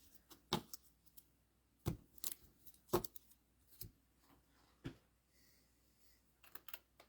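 Trading cards being handled and laid down on a table: a faint, irregular series of light clicks and taps.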